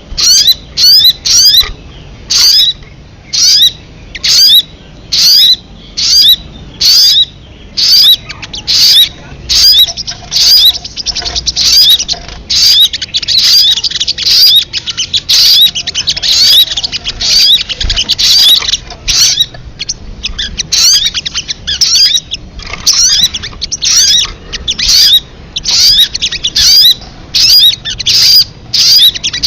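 Song of the bird sold as 'sogon kamade': loud, high chirping phrases repeated about twice a second. Midway through, the phrases run together into a continuous trill for several seconds before the separate phrases resume.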